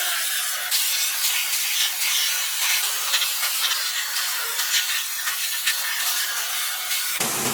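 Steady high hiss of a pressurised spray, with faint irregular spatters through it. Just before the end it switches abruptly to a fuller, deeper rushing noise.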